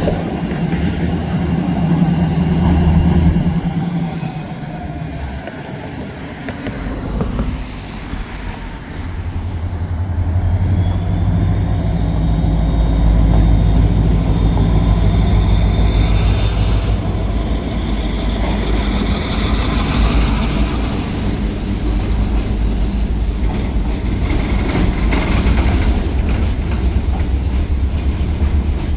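Freight train rolling past at close range: a steady heavy rumble of cars on the rails from about a third of the way in, with high wheel squeal that glides down and back up, loudest about halfway through.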